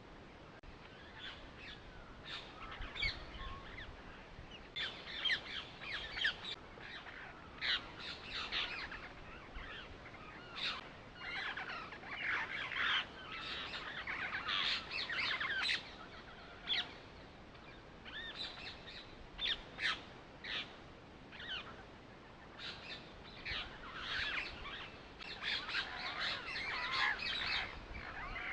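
Several birds chirping and calling, a dense run of short, high chirps with occasional harsher squawks, repeating throughout.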